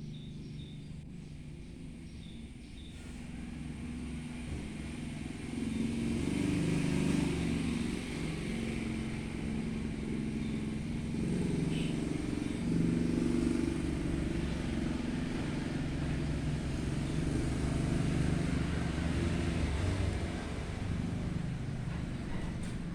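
An engine running with a steady low rumble and hum that shifts in pitch, growing louder a few seconds in.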